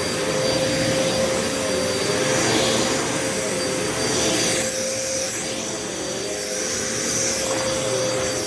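Upright vacuum cleaner running on carpet: a steady motor whine over the rush of suction, swelling and easing slightly as it is pushed back and forth.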